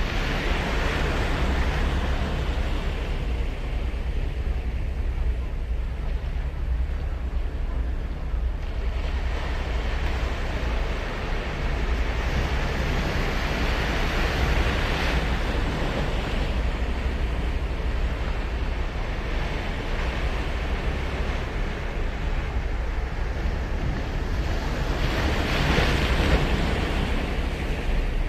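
Ocean surf breaking on a beach, swelling and washing in three surges: at the start, through the middle and near the end. Under it runs a steady low rumble of wind on the microphone.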